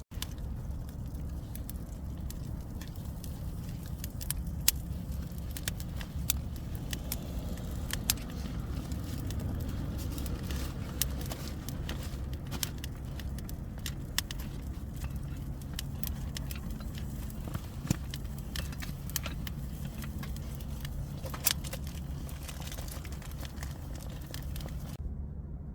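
Wood campfire crackling, with irregular sharp pops and snaps, several louder ones standing out, over a steady low rumble.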